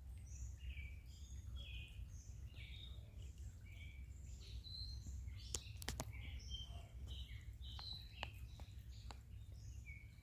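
Faint birds chirping and calling over a steady low rumble, with a few sharp clicks a little past halfway.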